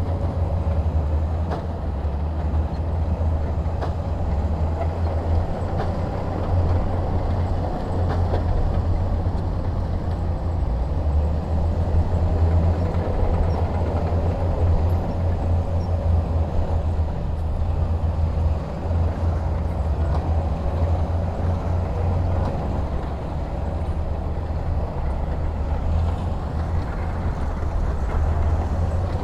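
Heavy diesel engine of earthmoving equipment running steadily, a continuous deep low rumble.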